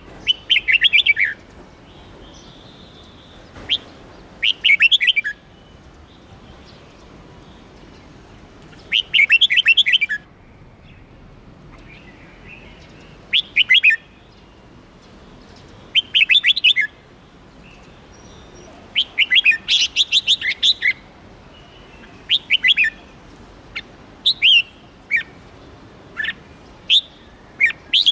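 Red-whiskered bulbul singing: short bursts of rapid, high chirping notes every few seconds, with shorter single calls in between toward the end.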